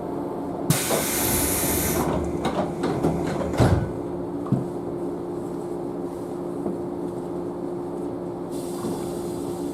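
Inside a JNR Class 113 electric train: a sharp hiss of compressed air about a second in, then a run of clunks and one heavy thump, over the carriage's steady hum with a constant tone. A softer air hiss returns near the end.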